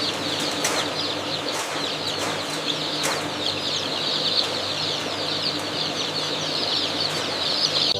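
Large flock of chickens making a steady, dense chatter of many overlapping high peeps and clucks, with a few brief flaps or knocks.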